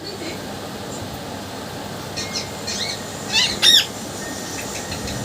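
Pet parrot calling: a few faint short chirps about two seconds in, then two loud, curved whistle-squawks in quick succession about three and a half seconds in.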